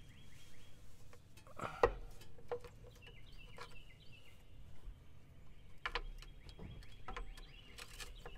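Faint bird trills and chirps, with a few sharp clicks from a wrench at the lower control arm bolt, the loudest about two seconds in.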